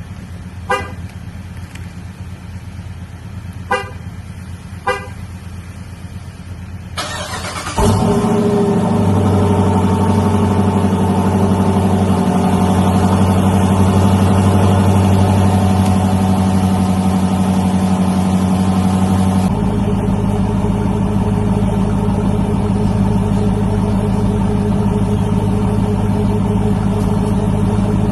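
Three short horn chirps. Then the starter cranks briefly and the 2021 Dodge Durango R/T's 5.7-litre Hemi V8 fires on a cold start, running loud at a high fast idle through the mid-muffler-deleted exhaust. About eleven seconds after it catches, the idle steps down to a lower, steady note as the cold-start fast idle ends.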